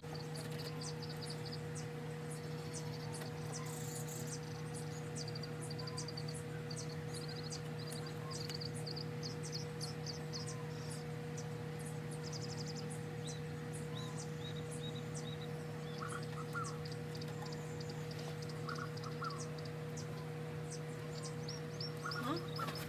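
Steady hum of honeybees around an open hive being inspected, with small birds chirping in short, high-pitched repeated calls over it.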